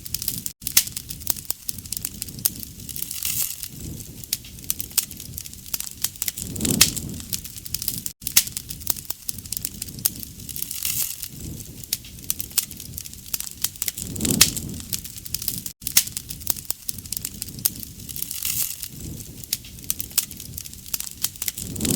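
Wood campfire crackling and popping steadily, with a soft low rush of flame that swells about every seven and a half seconds. The recording is a short repeating loop, with a brief dropout each time it restarts.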